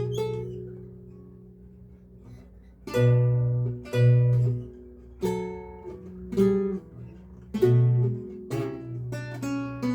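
Solo lute playing a recercar. A chord rings and fades over the first few seconds, then plucked chords and single notes follow about once a second.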